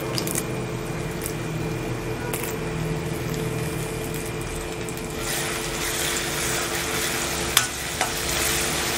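Onion-tomato masala sizzling in hot oil in an iron kadai as curry leaves go in. From about five seconds in, the sizzle gets louder as a spatula stirs the masala, with two sharp knocks of the spatula against the pan near the end.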